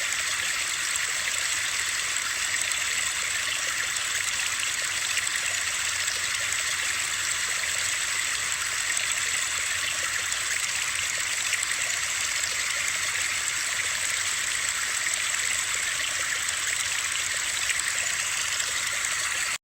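Steady, unchanging hiss of white noise that sounds like running water or rain, weighted toward the high end with little bass.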